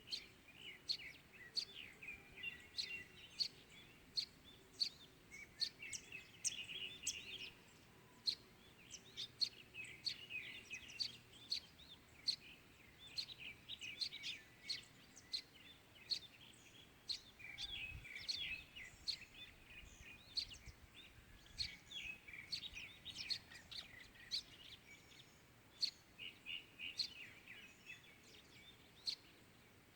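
Morning birdsong: several small birds chirping and twittering, with frequent short, sharp chirps a few per second and stretches of warbling song, over a faint steady background hiss.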